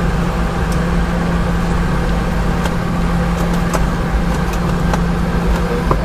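Cabin noise inside a Boeing 717-200 in a seat ahead of its rear-mounted Rolls-Royce BR715 engines: a steady engine and airflow hum with one constant low drone tone and a few faint clicks.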